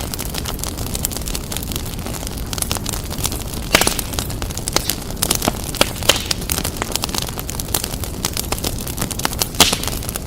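Wood fire burning steadily, with a low rumble and frequent irregular crackles and pops, a few sharper pops standing out.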